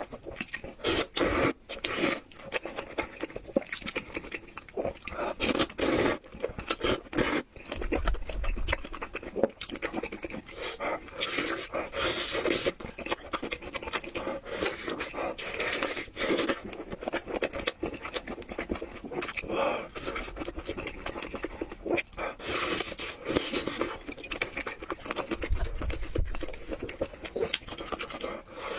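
A person slurping and chewing thick black bean sauce noodles: wet eating sounds in quick, irregular spurts with short breaks.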